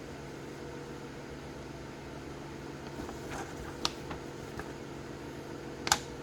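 Steady hum of a fan in a small room. From about three seconds in come a few light handling clicks and rustles, the loudest a sharp click near the end.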